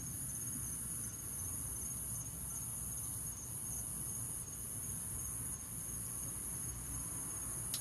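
A cricket trilling steadily, a continuous high-pitched chirp that swells slightly about once a second.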